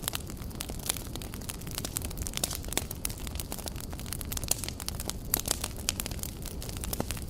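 Campfire burning, crackling with frequent irregular sharp pops over a low steady rumble.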